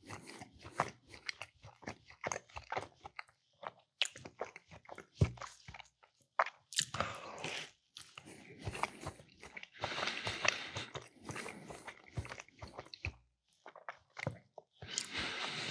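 Close-up mouth eating sounds of a meatball sub with mac and cheese: irregular bites, wet chewing and crunches, with a few short pauses.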